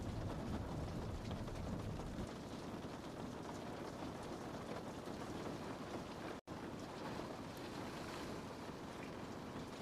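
Steady rain falling on window glass, a dense even patter with faint scattered drop ticks and a low rumble that eases about two seconds in. The sound cuts out for a split second about six and a half seconds in, then carries on unchanged.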